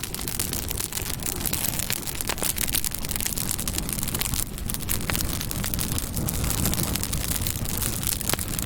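Campfire burning: a steady rushing hiss with many quick, sharp crackles and pops of burning wood scattered through it.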